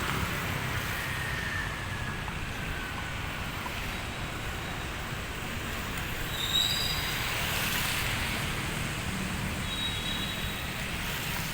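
Steady city street traffic noise, with a faint falling tone early on and a few short high tones in the second half.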